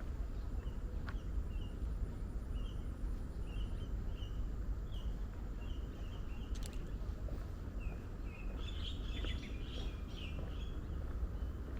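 A bird calling from the forest in a steady series of short chirps, about two a second, breaking into a quicker run of chirps near the end. Under it is a steady low rumble of outdoor noise.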